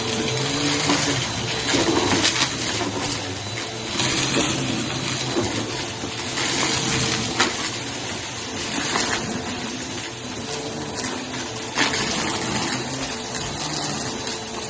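Vacuum cleaner running steadily over carpet, with scattered sharp crackles and ticks as it sucks up dry Fruity Pebbles cereal.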